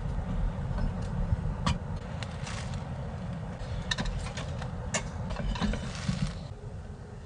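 A steady low rumble with scattered small clicks and short rustles of things being handled, which stop about six seconds in.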